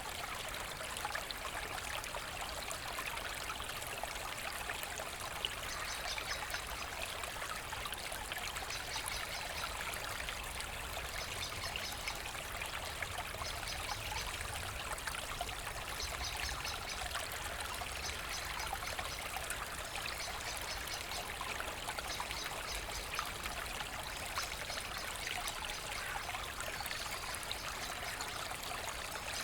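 Forest brook babbling and trickling steadily. A faint, rapid, high ticking comes and goes over it.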